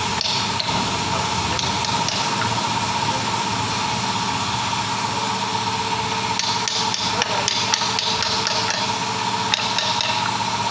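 Hand tools knocking and scraping on metal lorry gearbox parts, many small clicks and taps over a steady high hum.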